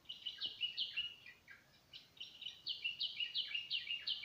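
Small birds chirping: quick, high, falling notes, about five a second, in two runs with a short break near the middle.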